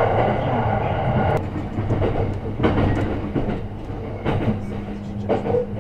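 JNR-type electric train heard from inside the car while running: a loud rushing for the first second and a half, then quieter running with the wheels knocking over rail joints and points every second or so as it comes alongside a station platform.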